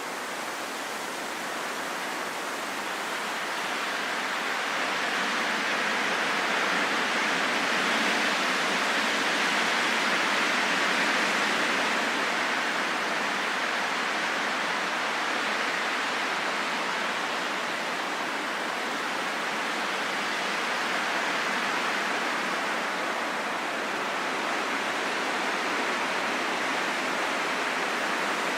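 Wind blowing as a steady rushing hiss, swelling to a stronger gust about ten seconds in and then easing to a steady level.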